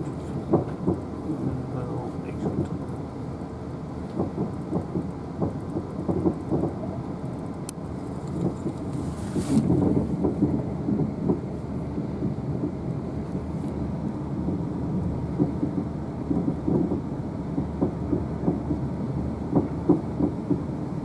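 Interior running noise of a Siemens Desiro electric train at speed: a steady low rumble from the wheels on the rails, with irregular knocks and a brief hiss about nine and a half seconds in.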